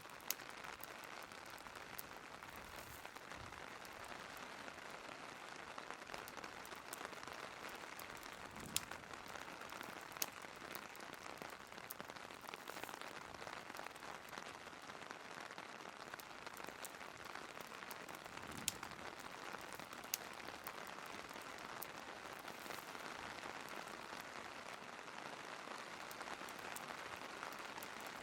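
Steady rain falling, with a fireplace log fire crackling underneath and giving an occasional sharp pop every few seconds.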